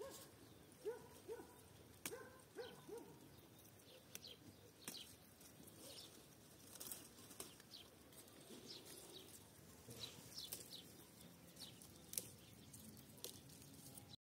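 Faint bird calls: a run of short, low, bending calls in the first three seconds, then scattered thin high chirps.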